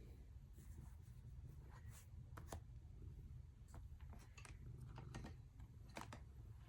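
Near silence: faint room hum with scattered soft clicks and rustles of small handling noises at uneven intervals.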